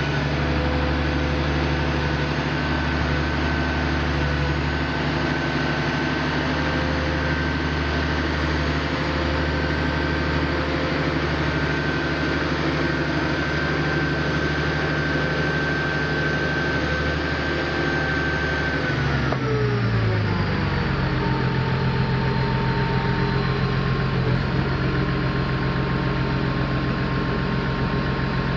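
Heavy diesel engine of the heavy-haul transport rig running steadily. At about 19 seconds it drops in speed with a falling pitch, then settles at a steady lower speed.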